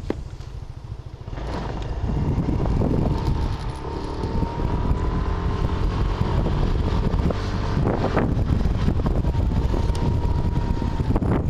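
Vehicle driving on a rain-wet road: steady engine and road noise, with a faint whine that rises and falls and a few brief louder swells.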